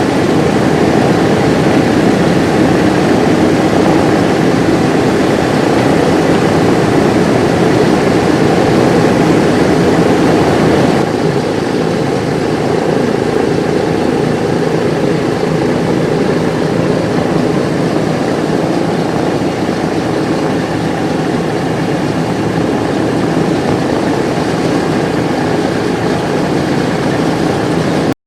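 Simulated engine run-up on a scale model of a Vickers Wellington bomber: a loud, steady aero-engine and propeller drone. It drops slightly about eleven seconds in and cuts off suddenly near the end.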